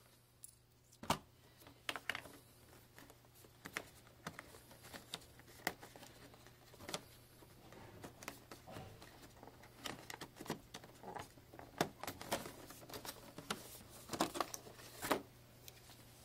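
Packaging being handled during an unboxing: irregular clicks, taps and light crinkling, with sharper knocks about a second in and near the end.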